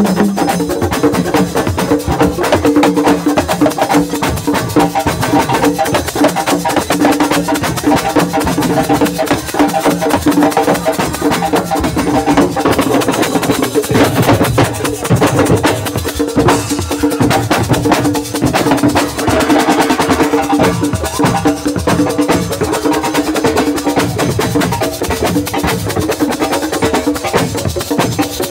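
Live assiko band music: drums and sharp, wood-block-like percussion playing a dense, fast rhythm over steady held tones.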